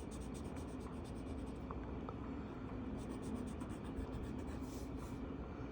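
Marker tip rubbing on paper in quick, even back-and-forth colouring strokes, faint and steady.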